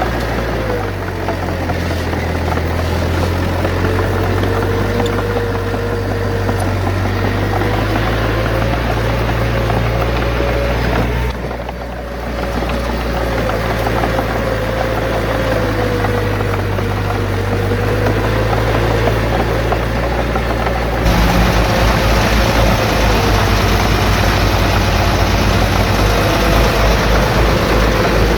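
Heavy diesel engines of earthmoving machinery running under load, with a wavering whine over the engine note. About two-thirds of the way through, the sound changes abruptly to a lower, fast, even throb, like a diesel at idle.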